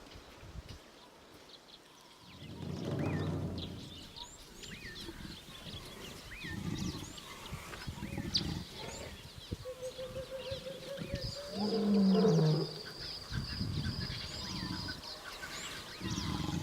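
Elephants giving low rumbling calls, a long one about two seconds in and a louder one near twelve seconds in that falls in pitch, over small birds chirping throughout.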